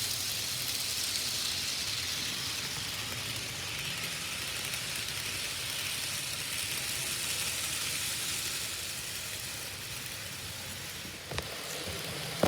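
N scale model trains running on the track: a steady whirring hiss from the small motors and wheels on the rails, with a single click about eleven seconds in.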